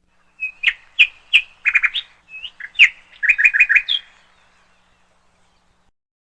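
Bird chirping: a string of short, high chirps and quick trills over about four seconds, then silence.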